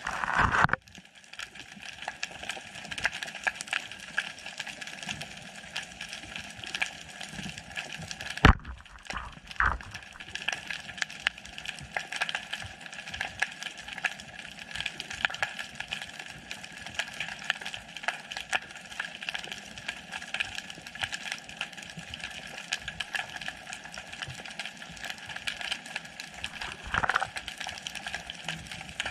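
Underwater sound heard through a GoPro's housing: a steady, dense crackle of tiny clicks, with a sharp knock about eight and a half seconds in and a short louder rush near the end.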